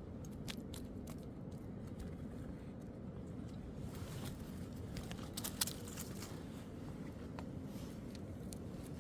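Scattered light clicks and knocks over a steady low rumble, with one sharper knock a little past halfway.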